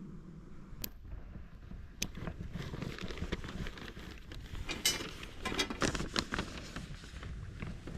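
Handling of a polycotton fire windscreen and its steel support rods during setup: two sharp clicks, then a spell of irregular rustling and crackling handling noise.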